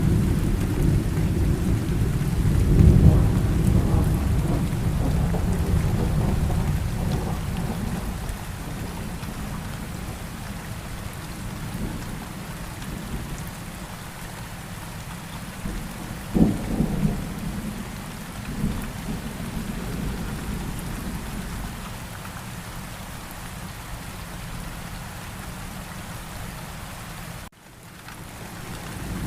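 Steady rain with rolling thunder. A long, low thunder rumble is loudest in the first few seconds and fades away slowly. A shorter clap comes about halfway, and near the end the thunder swells again after a brief break in the sound.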